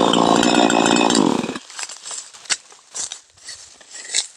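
Chainsaw engine running loudly, then cutting off abruptly about a second and a half in. Afterwards only a few scattered sharp clicks and knocks.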